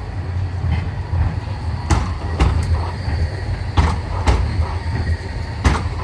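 Cobra tram rolling past with a steady low rumble, its wheels clacking over a rail joint in pairs of sharp clicks about half a second apart, three pairs in a row.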